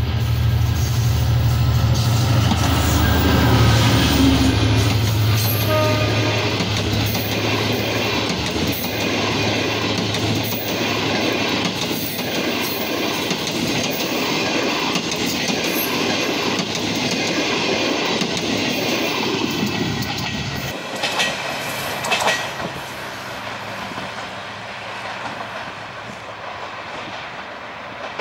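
GT22 diesel-electric locomotive passing at speed with a train of passenger coaches: a deep, steady engine drone first, then the rolling rumble and clatter of the coaches' wheels on the rails. About 20 seconds in the sound drops off sharply and turns thinner and quieter as the train recedes.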